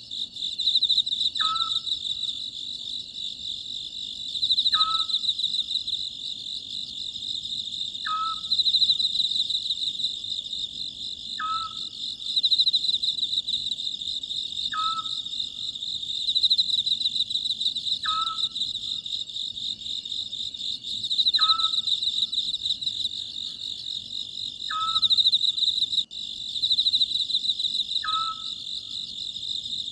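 Oriental scops owl giving a short, falling call about every three and a half seconds, over a dense, shrill chorus of crickets that swells and fades.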